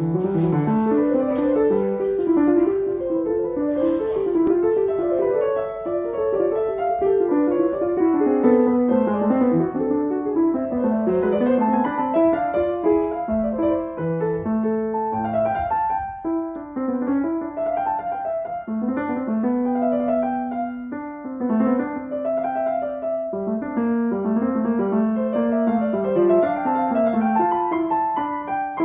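Feurich piano being played: a continuous piece of many notes moving in quick runs, mostly in the middle register.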